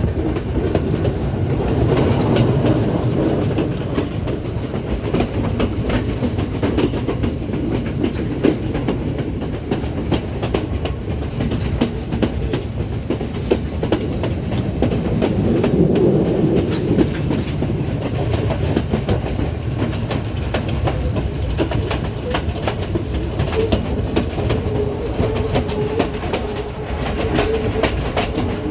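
Sri Lanka Railways passenger train running, with a steady rumble and the wheels clattering over the rail joints in quick clicks. A faint steady tone joins the rumble near the end.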